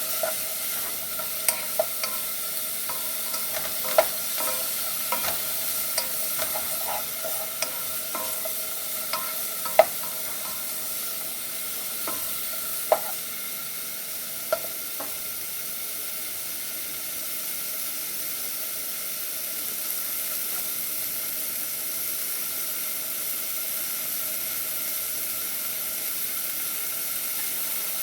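Onions and celery sizzling in oil in a saucepan. A utensil clicks and knocks against the pan during the first half as they are stirred, then only the steady sizzle.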